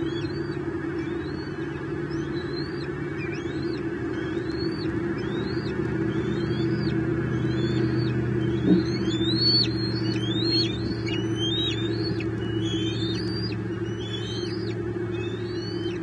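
Bird chirps: a long run of short, high notes, each rising then dropping, about two a second and busier in the middle, over a steady low hum. A brief knock sounds about halfway through.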